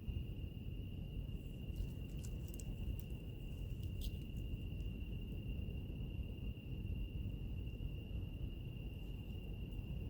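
Crickets trilling on one steady high note over a wood fire's low, steady rumble, with a few sharp crackles and pops about two and four seconds in.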